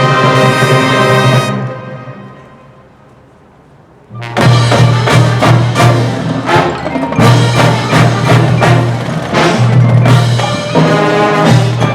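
Marching band playing: a held brass chord fades away in the first two seconds, a short near-quiet gap follows, then about four seconds in the percussion and winds come back in with quick, sharply struck notes over a sustained low line.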